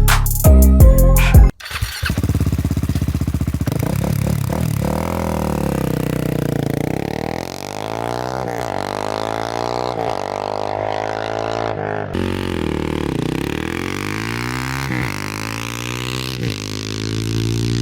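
Music with a heavy drum beat for about a second and a half, then cut off sharply. After that a supermoto motorcycle with an Austin Racing titanium exhaust runs throughout, its engine note repeatedly rising and falling.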